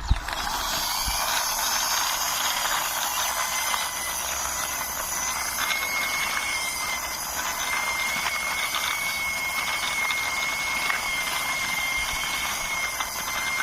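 Toy runner car pushed along by hand, its wheels and gears giving a steady whirring hiss with a faint high whine and fine ticks.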